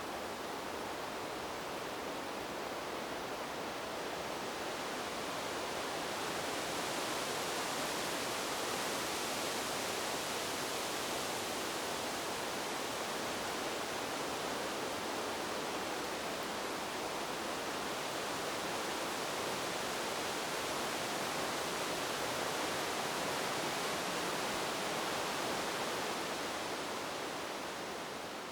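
Wind blowing through a bamboo grove: a steady rustling hiss of leaves that swells a little about six seconds in and eases slightly near the end.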